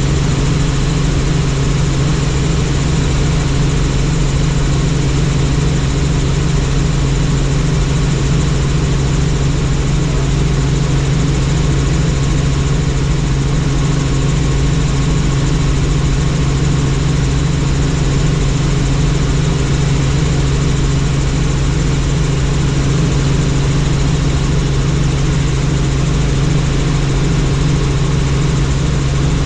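Helicopter in flight: a steady, unchanging drone of engine and rotor with a strong low hum.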